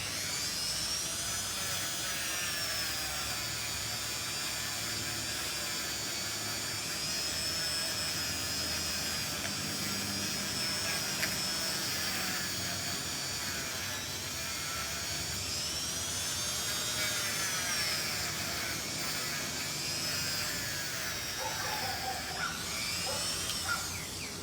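Small electric rotary tool running with a high whine. The pitch sags and rises repeatedly as the tool is pressed against metal parts to clean them up.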